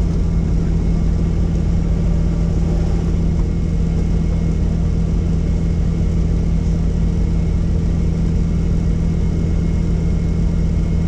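Helicopter running steadily: a loud, even drone of rotor and turbine with a strong low hum.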